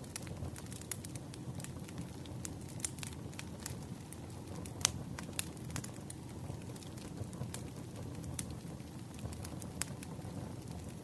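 Wood campfire crackling: irregular sharp pops and snaps over a low steady rumble, with the loudest pop about five seconds in.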